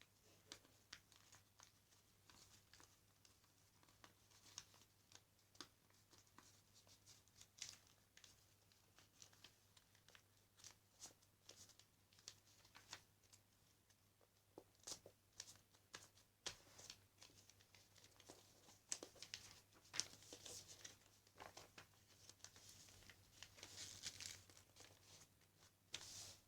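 Sheet of paper being folded and creased by hand: faint, irregular rustles and crinkles.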